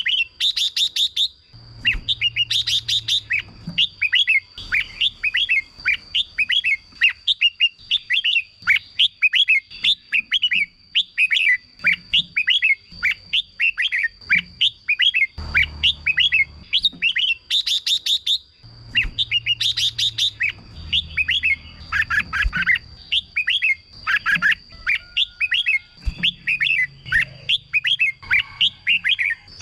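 Red-whiskered bulbuls singing: a continuous stream of short, quick whistled notes, broken by several brief dry trills, over a steady thin high tone.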